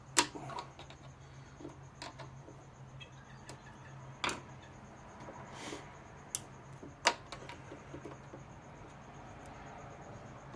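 Scattered sharp clicks and taps of screwdrivers and plastic as a lawnmower engine's primer bulb is pried and pushed at, a few seconds apart.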